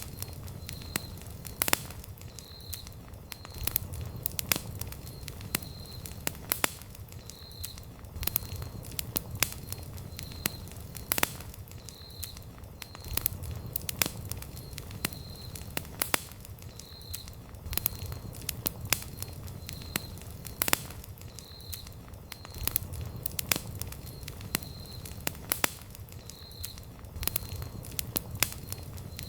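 Wood campfire crackling, with irregular sharp pops and snaps from the burning wood over a low, steady rumble.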